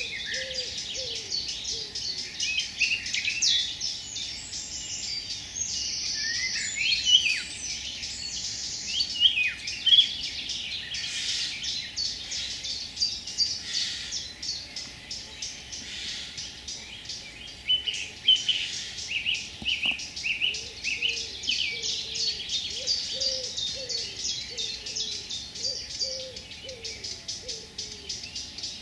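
Several birds singing and chirping, with many short high chirps and trills overlapping. From about twenty seconds in, lower short notes repeat beneath them.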